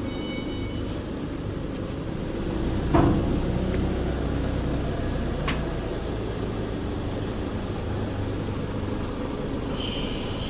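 A steady low hum of factory machinery. About three seconds in there is one sharp knock from hands-on work at the machine, and a few light clicks come later.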